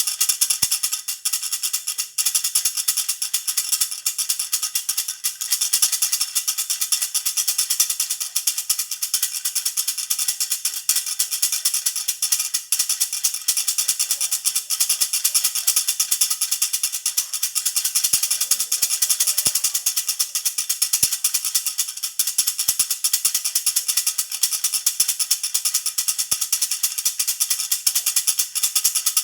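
Jhunjhuna baby rattle shaken continuously: a rapid, even jingling with bright ringing tones and no pauses.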